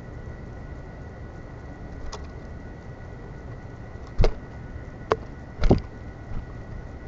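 Several sharp knocks and taps on a bird feeder right by the microphone, a faint one about two seconds in and louder ones between about four and six and a half seconds in, over a steady low rumble.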